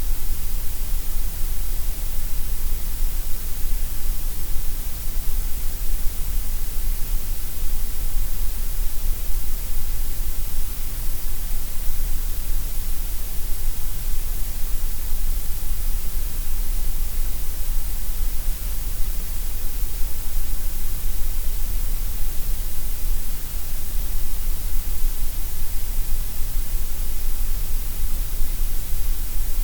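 Generated gray noise: a steady, even hiss, heavier in the deep lows and the highs than in the middle range.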